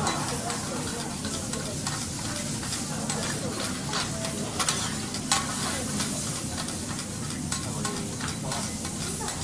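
Food sizzling steadily on a hot teppanyaki griddle, with metal spatulas clicking and scraping on the iron plate; the sharpest knocks come about four to five seconds in.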